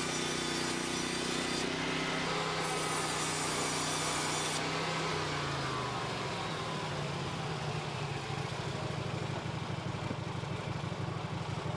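Portable band sawmill running, its engine and band blade sawing wood. A tone falls about five seconds in, after which the engine sound turns rougher.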